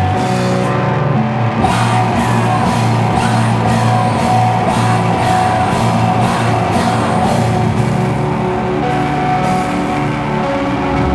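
Live slowcore/noise rock band playing loud: sustained, distorted electric guitar chords over a steady beat.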